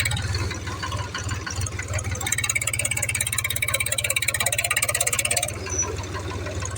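Small electric motor of a homemade toy tractor running steadily, a whir with a fast even pulsing that grows a little stronger in the middle and eases about five and a half seconds in.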